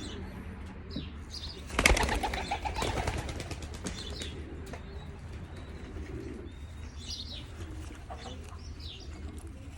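A racing pigeon flapping its wings in a quick flurry of wingbeats about two seconds in, fading after a second or so. Pigeons coo faintly in the background.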